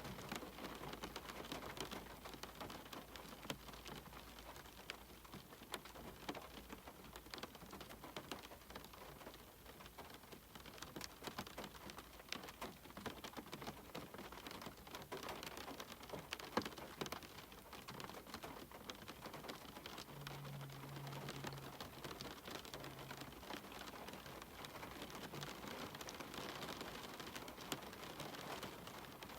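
Steady rain falling on a cabin window, with many separate drops ticking close by over the even hiss of the downpour.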